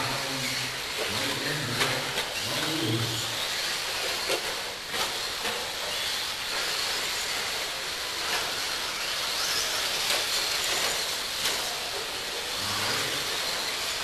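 Electric radio-controlled stadium trucks racing: a steady high hiss and whine of motors and tyres on the track, with a few sharp clicks of landings or knocks scattered through.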